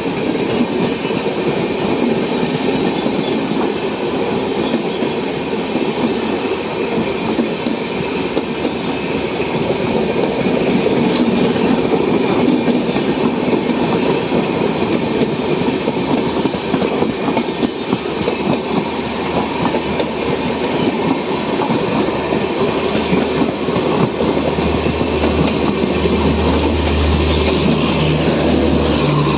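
Intercity express train running through a station at high speed without stopping: a continuous rumble and clatter of coaches' wheels over the rails. A low steady hum comes up in the last few seconds.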